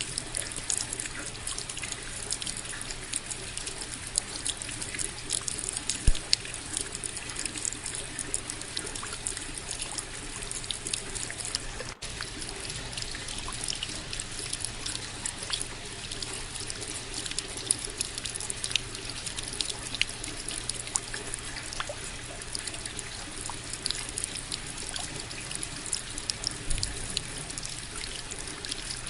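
Steady rain, with a dense scatter of small, sharp drop hits over an even hiss.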